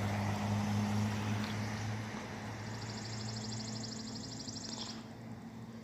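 Delivery truck's engine running as it pulls away, a low steady hum that fades out. A rapid high trill sounds over it for a couple of seconds in the middle.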